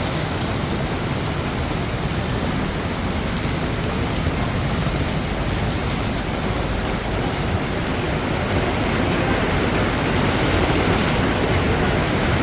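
Heavy rain pouring down in a thunderstorm, a steady dense hiss that grows a little louder near the end.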